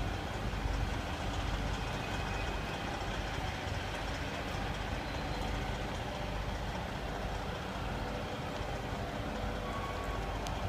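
Cat C15 inline-six diesel engine of a Peterbilt 388 highway tractor idling steadily.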